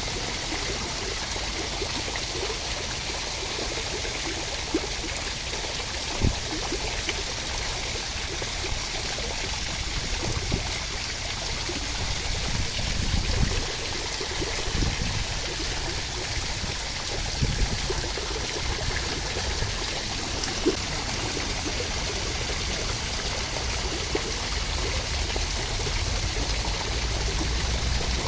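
Steady rushing of running water for relaxation, with a few soft low thumps scattered through.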